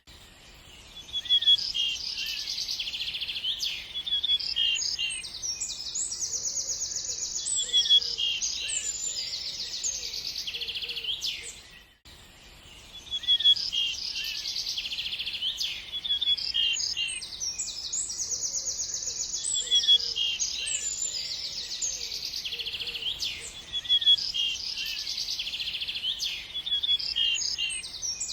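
Birds chirping and singing, with fast trills and short overlapping calls. The same short stretch of recording repeats about every twelve seconds, with a brief dip in loudness each time it starts over.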